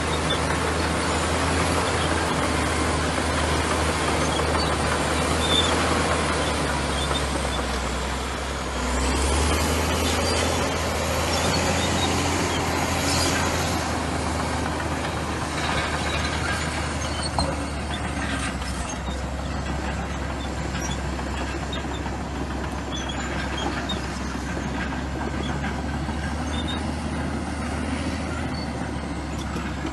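Komatsu crawler bulldozer's diesel engine running steadily under load, with the dense rattle and faint squeal of its steel tracks. The engine dips briefly about eight seconds in, then picks up again, and a few sharp knocks come later.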